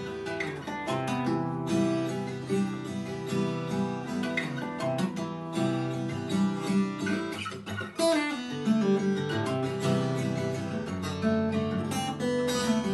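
Acoustic guitar played fingerstyle, picked melody notes over a bass line, with a short break in the flow a little before the middle.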